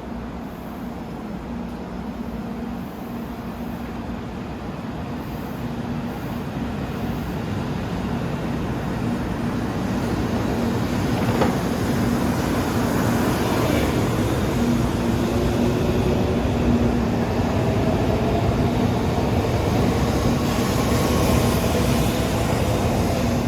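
Shinkansen bullet train pulling out of the station, its rumble growing louder as it accelerates, with the whine of the traction motors rising in pitch from about halfway through.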